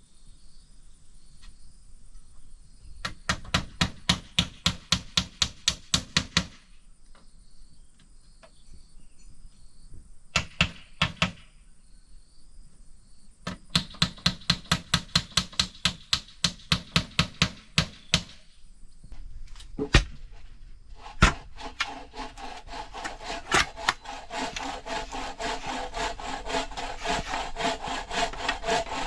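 Wood being sawn in runs of quick, even strokes, about three or four a second, with pauses between the runs. Two sharp knocks come about two-thirds of the way in, then the sawing goes on more densely to the end. A faint steady high insect drone runs under the first part.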